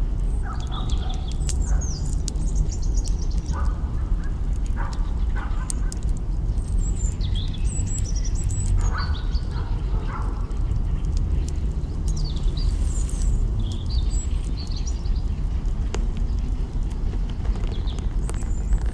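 Birds chirping and calling in short scattered bursts over a steady low rumble, with a few sharp crackles from a campfire's burning branches.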